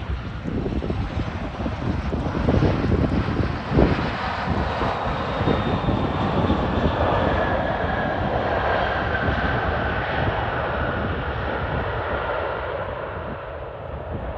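Jet engines of a Boeing 737-800 airliner on landing approach passing close overhead: a loud rushing roar that builds over the first few seconds, with an engine whine falling in pitch as it goes past, then slowly fading.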